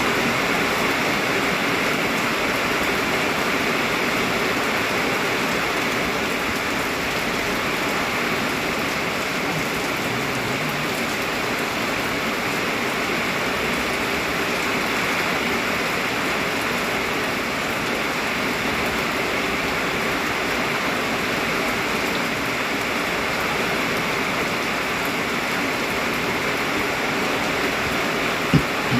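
Heavy rain pouring down in a dense, steady hiss. A single sharp knock sounds near the end.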